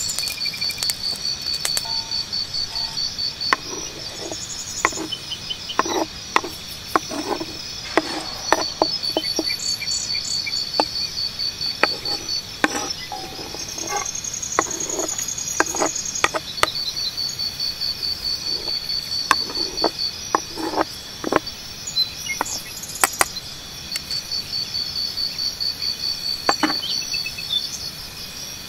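Insects chirping outdoors in rapid, high-pitched pulse trains that start and stop in runs of a few seconds, with scattered short knocks and clicks among them.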